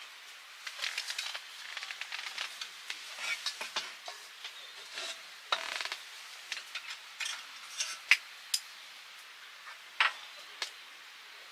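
Cooking utensils clinking and scraping against dishes and pans in irregular bursts, with a few sharp single clicks near the end.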